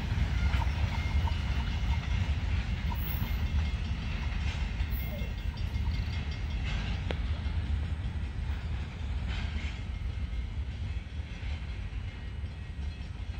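Great Lakes Central Railroad train running away down the track, a steady low rumble slowly fading, with a few faint clicks from the wheels.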